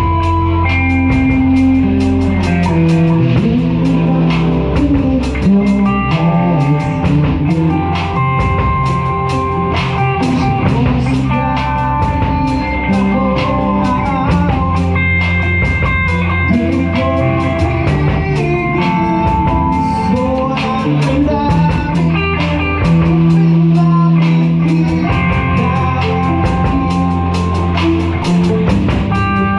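Live rock band playing: guitar lines with held notes over bass and a drum kit keeping a steady beat.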